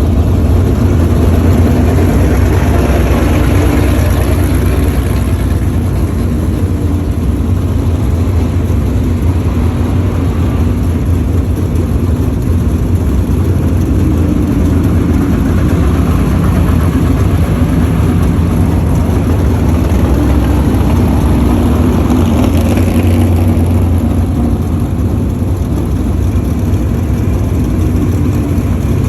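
Dirt-track race car engines running loud and continuous, swelling and easing a few times.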